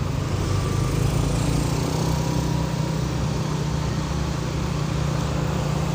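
Truck engine running steadily under way, a constant low hum with road noise over it.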